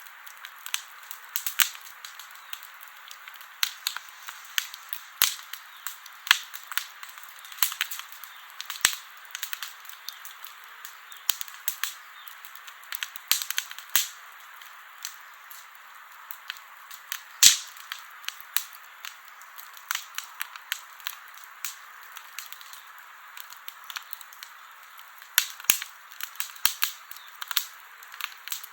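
Campfire crackling: irregular sharp pops and snaps over a steady hiss, with one louder pop about two-thirds of the way through.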